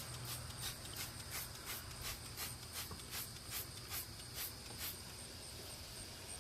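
Trigger spray bottle of soapy water squirted in quick repeated sprays, about three a second, stopping about five seconds in.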